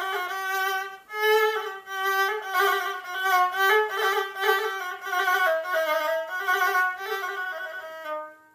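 A solo melody on a bowed string instrument, moving through short ornamented notes of an 'ataba tune, with a brief break about a second in. The phrase dies away near the end.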